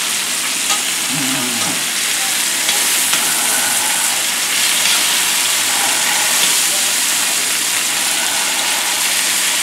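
A beef roast and sliced onions sizzling steadily in hot oil in a Dutch oven as the meat browns, with a few faint clicks of a fork moving the onions.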